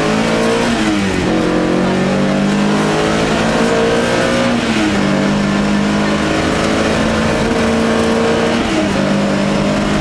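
Opel Manta's four-cylinder rally engine, heard from inside the cabin, pulling hard on a special stage: the revs climb steadily, drop with a gear change about five seconds in, and drop again near the end before climbing once more. The driver felt the engine was no longer pulling with much torque.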